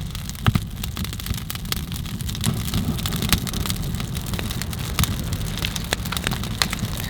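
Small fire of birch bark and twigs crackling, with many irregular sharp pops over a steady low rumble.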